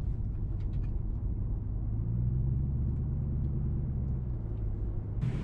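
Low exhaust rumble of a 4.6-litre V8 running through an H-pipe with no mufflers, heard from inside the car's cabin; the rumble swells about two seconds in and holds. Near the end a steady hiss of the air-conditioning fan suddenly comes in.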